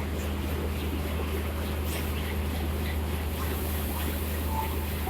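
Diesel locomotive idling: a steady low engine drone with an even hum above it, amid faint station voices.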